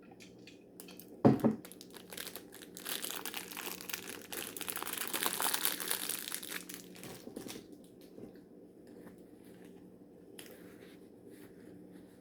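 A single sharp thump about a second in, then several seconds of a plastic snack wrapper crinkling as it is handled, loudest in the middle and trailing off into a few small crackles.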